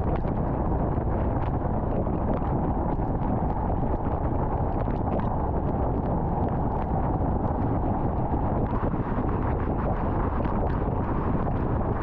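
Car driving at highway speed: a steady rumble of road and wind noise, with scattered faint ticks over it.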